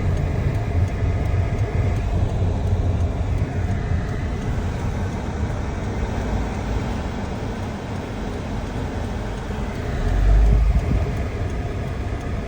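Road and engine noise inside a moving car's cabin: a steady low rumble that swells briefly about ten seconds in.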